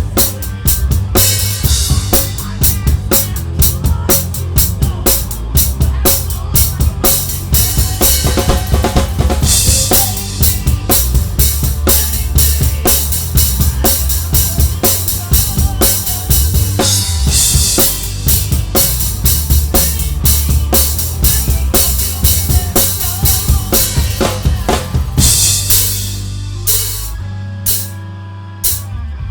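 Live band playing, heard from the drummer's position: a drum kit up front with kick, snare and cymbals keeping a steady beat over bass and guitars. Near the end the playing thins out for a couple of seconds, then picks up again.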